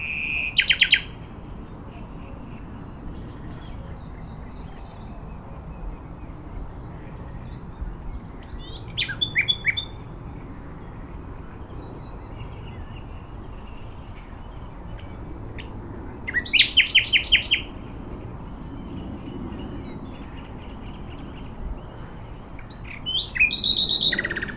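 A songbird singing four short phrases, each a quick run of repeated notes, spaced several seconds apart, over a steady low background noise.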